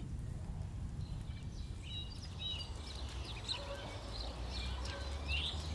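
Faint bird chirps and short calls over a low, steady rumble of outdoor ambience.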